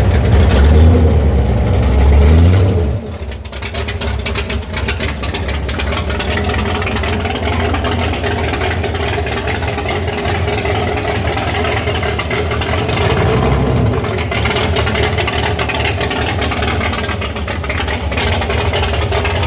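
Ford Thunderbolt's 427 FE V8 running with open exhaust, loudest and deepest for about the first three seconds, then settling to a steadier, lower running note.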